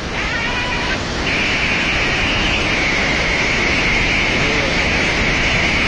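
Flash-flood torrent rushing: a loud, steady noise, with a brighter hiss coming in about a second in.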